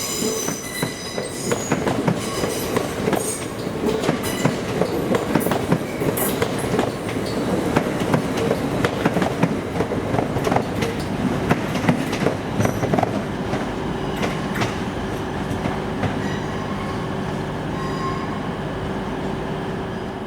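Train wheels running through the station, clicking repeatedly over rail joints with high-pitched squealing. A steady hum joins in about two-thirds of the way through.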